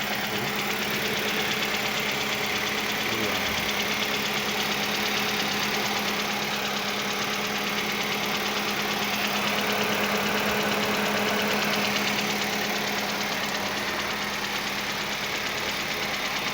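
Engine running steadily at a constant speed with an even hum, fed with gas from a water electrolysis cell.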